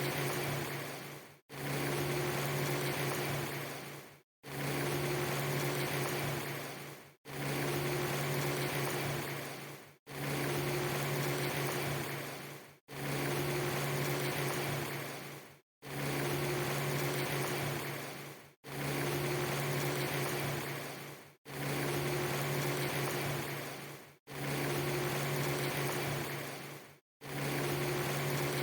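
A steady hiss with a strong low hum under it. It is a clip of about three seconds looped over and over: each repeat starts abruptly, fades a little, and cuts off in a brief dropout to silence before the next.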